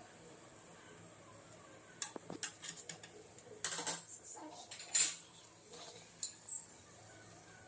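Kitchen utensils and dishes clinking and clattering: a string of sharp knocks and clinks that starts about two seconds in, with the loudest near the middle, then stops.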